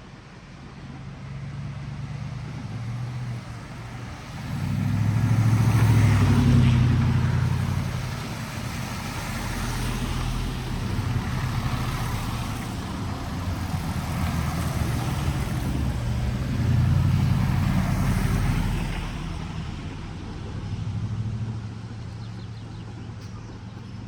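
Motor vehicles driving past on a wet street: a low engine hum with tyre hiss. It swells loudest twice, about six seconds in and again around seventeen seconds in.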